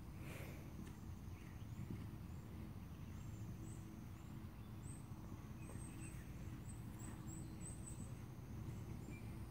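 A bird chirping faintly, a run of short high notes in the second half, over a steady low rumble.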